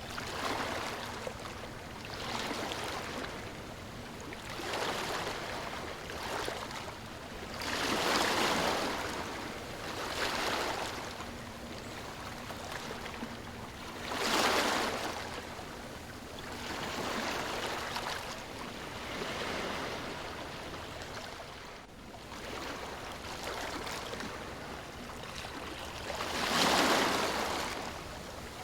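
Ocean waves washing in on a shore, a rushing noise that swells and ebbs every few seconds, with three bigger waves standing out.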